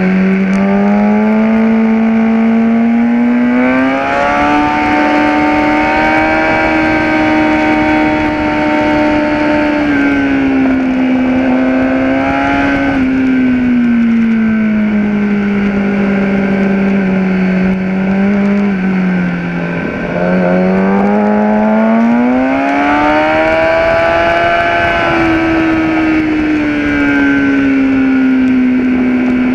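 Kawasaki ZX-10R inline-four engine at full race pace, pitch climbing and falling over and over as the bike accelerates, changes gear and slows for corners. There is a brief dip in level and pitch about two-thirds of the way through.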